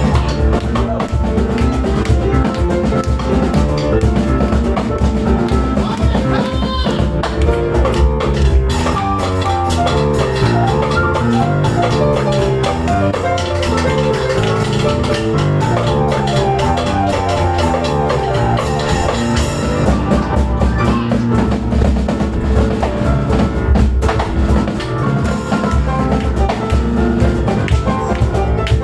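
Live instrumental music: piano playing fast, rapidly stepping note runs over a drum kit and cajon drumming steadily.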